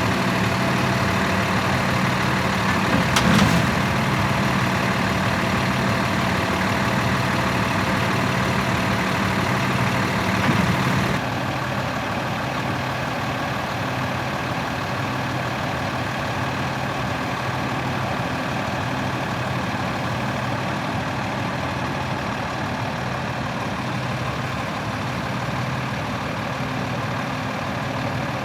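The 2012 Freightliner M2-106 bucket truck's diesel engine idling steadily. A brief louder spot comes about three seconds in, and the sound turns duller and a little quieter about eleven seconds in.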